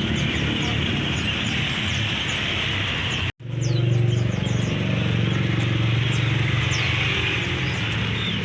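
Many small caged songbirds chirping in short high calls over a steady low rumble of passing traffic. The sound cuts out completely for a split second about three seconds in.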